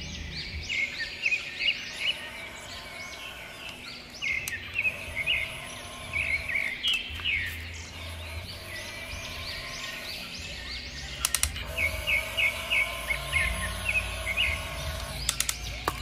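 Birds chirping over and over in short, quick calls, over a low background rumble, with a couple of sharp clicks in the second half.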